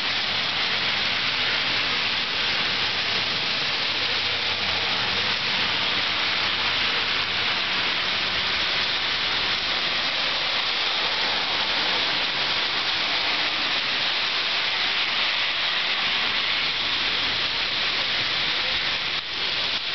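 Heavy rain pouring down, a steady dense hiss of rainfall on pavement and roofs, with a low hum underneath for about the first eight seconds.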